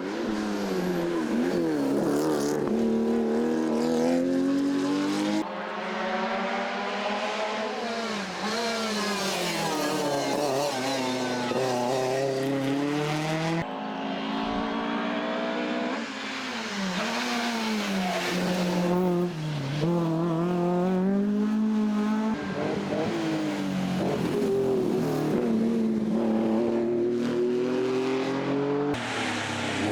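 Rally car engines revving hard, the pitch climbing and dropping again and again through the gears, with a few quick cuts from one car to the next.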